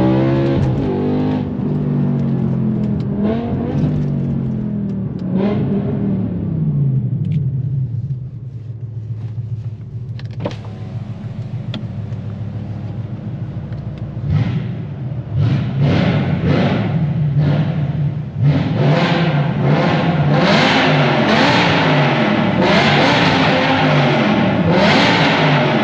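BMW M6's 5.0-litre S85 V10, straight-piped through an Fi exhaust, dropping in revs, then running low and steady for several seconds. Over the last ten seconds it is revved sharply again and again, about once a second.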